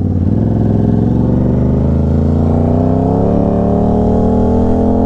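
Aprilia RS 660 parallel-twin engine through an SC-Project S1 titanium exhaust, pulling hard in gear. Its pitch rises slowly and steadily as the bike gathers speed.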